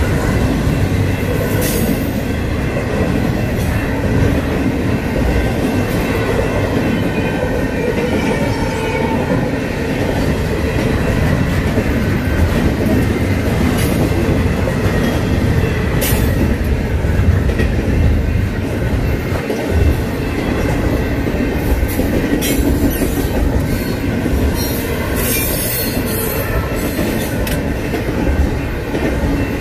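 Double-stack intermodal train's container well cars rolling past at speed: a loud, steady rumble and clatter of steel wheels on rail, with a few sharp clanks along the way.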